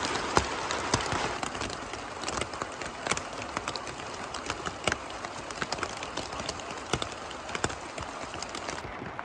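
Steady rain, with scattered raindrops ticking sharply and irregularly on nearby hard surfaces. The rain hiss is a little heavier in the first second or so.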